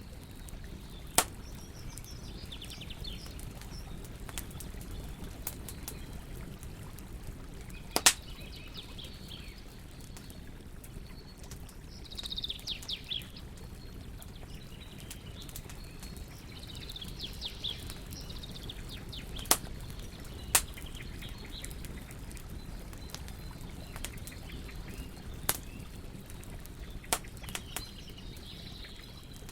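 Wood campfire crackling, with a handful of sharp pops spread over the stretch, over a steady low hiss. Small birds chirp in quick runs of notes every few seconds in the background.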